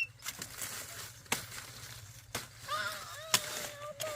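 About four sharp chopping knocks, roughly a second apart, as sugarcane stalks are cut. A child's high voice hums a held note through the last second and a half.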